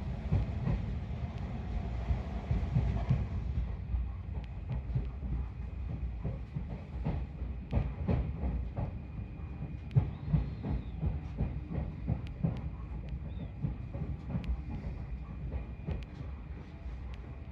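Electric commuter train rolling slowly, heard from inside the car: a steady low rumble of the wheels with irregular clicks and clacks as they cross rail joints and points.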